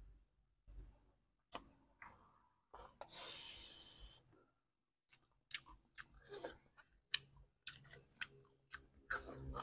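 A person eating, with chewing, crunching and wet mouth clicks. A sharp hiss lasting about a second comes about three seconds in, and the chewing clicks come thick and fast in the second half.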